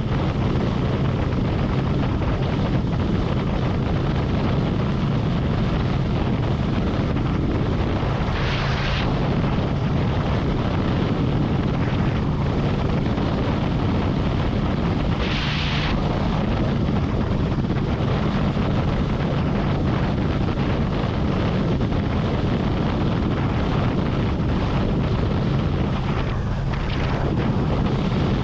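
Harley-Davidson Road Glide motorcycle cruising at highway speed: a steady engine drone under wind rushing over the microphone. Twice a brief hiss rises over it, about a third of the way in and again a little past halfway.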